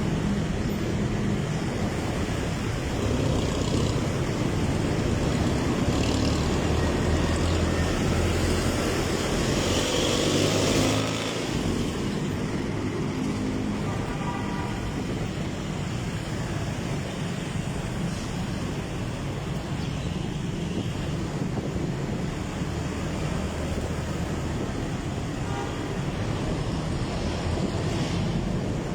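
Motorcycle engine running on the move, with road and wind noise on the microphone; it gets somewhat quieter about eleven seconds in.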